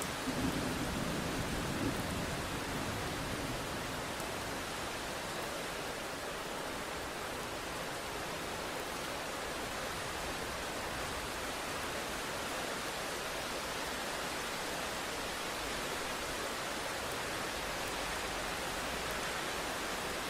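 Steady hiss of rain and sea. In the first two seconds a brief low rumble rises above it.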